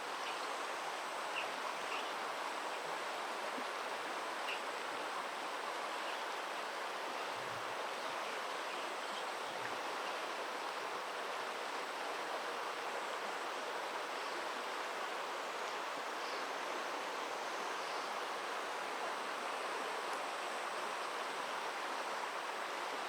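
Steady rushing of flowing river water, with a few faint short high chirps in the first few seconds.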